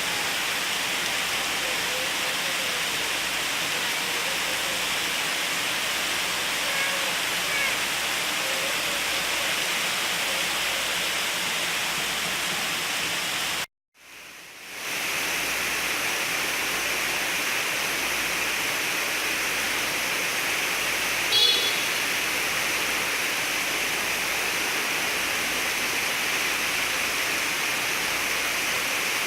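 Steady heavy rain falling, an even hiss. It cuts out for about a second just before the halfway point and fades back in, and a brief sharper sound stands out about two-thirds of the way through.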